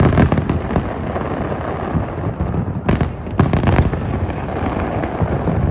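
Aerial fireworks shells bursting one after another in a dense, continuous rumble and crackle. Sharp, loud reports come right at the start and twice more about three seconds in.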